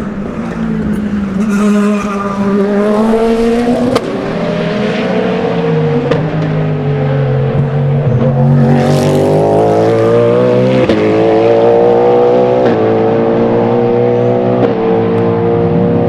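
Race car engine accelerating hard, its pitch climbing and then dropping sharply at each upshift, several quick upshifts in a row.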